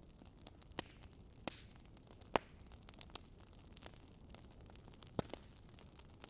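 Burning firewood crackling: a low steady hiss with irregular sharp pops, the loudest a little over two seconds in and another about five seconds in.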